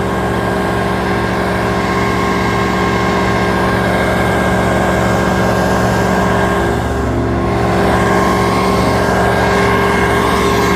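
Large engine of tree-service machinery running steadily at a constant speed.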